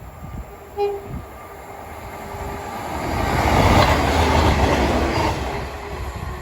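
A train passing over the foot crossing: the rumble and rush of the train and its wheels swell to a peak around the middle and then die away. About a second in there is a short pitched toot.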